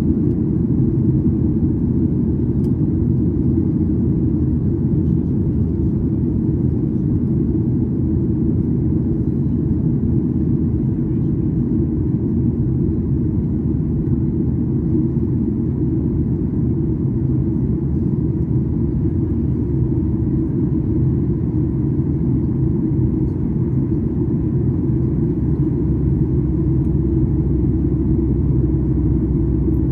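Steady low rumble of engine and airflow noise inside the cabin of a Boeing 737-800 airliner.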